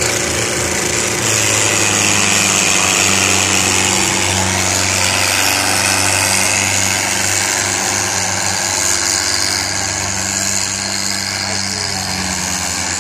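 Tractor engine running loud and steady, its note holding without a break, as in a tochan pull where tractors strain against each other.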